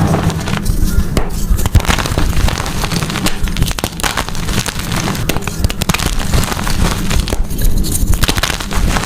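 Gym chalk being crushed and crumbled: a dense, continuous run of crunchy crackles.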